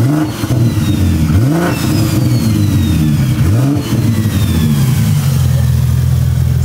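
BMW S58 inline-six with a big single-turbo conversion running just after a cold start. The throttle is blipped three times, each rev rising and falling back, and then the engine settles into a steady idle. A faint high whistle falls away after the blips.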